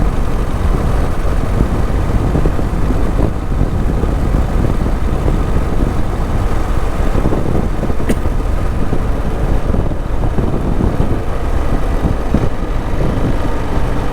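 Motorcycle being ridden at road speed: steady engine and road noise with heavy wind buffeting on the microphone, and one brief click about eight seconds in.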